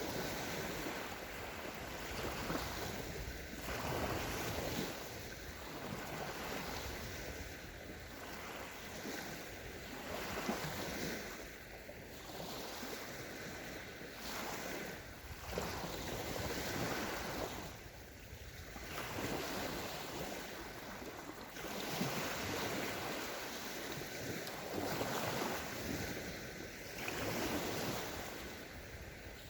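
Small sea waves washing onto a sandy beach, each swell of surf rising and ebbing every few seconds, with some wind on the microphone.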